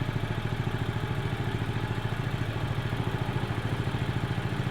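Small boat engine running steadily at a constant speed, with a fast, even pulse.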